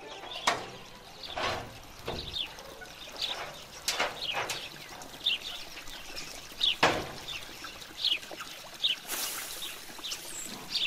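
Small birds chirping over and over in short, high calls, with a few sharp knocks standing out louder between them.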